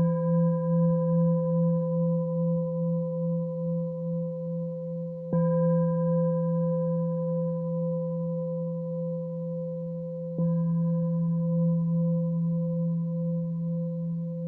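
A roughly 200-year-old singing bowl struck three times, about five seconds apart. Each strike rings on as a steady, smooth low hum with clear higher overtones that pulse slowly.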